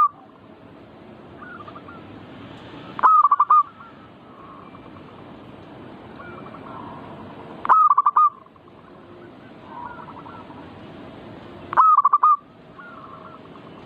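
Zebra doves (perkutut) cooing: a loud, short, rolling coo phrase comes three times, about every four seconds, with fainter doves calling in between.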